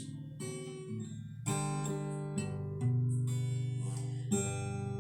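Acoustic guitar playing chords as a gospel song accompaniment, with a new chord struck about every second and the notes left ringing.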